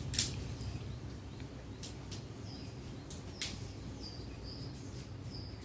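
Outdoor ambience with a steady low rumble and birds giving short high chirps, several times. A few sharp clicks or snaps.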